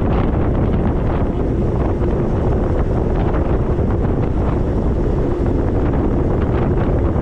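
Wind buffeting the camera's microphone on a moving e-bike, a steady loud rumble.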